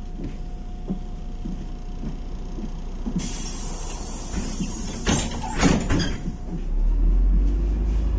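Inside a MAZ-105 bus, the doors closing: a hiss of air starts about three seconds in, and the door leaves knock shut a couple of seconds later. The engine then drones louder near the end as the bus pulls away from the stop.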